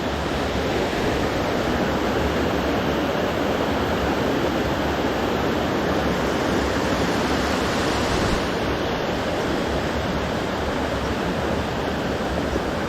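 Small waterfall pouring steadily into a pool: a constant rush of falling water.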